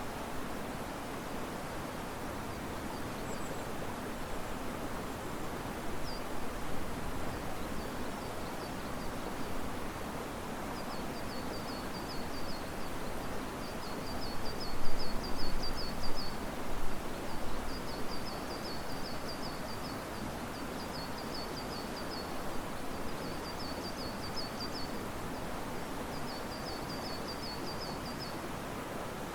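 Steady rush of river water and wind moving through riverside trees, swelling louder for a few seconds in the middle. Over it a high, rapid chirping trill repeats in short runs of about a second each through the second half.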